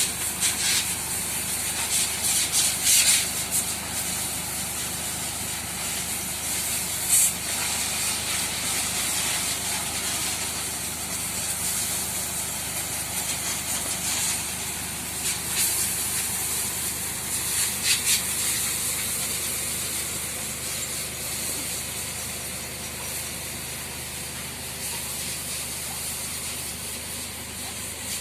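Water spraying from a hose onto cattle being washed: a steady hiss with a few brief louder surges.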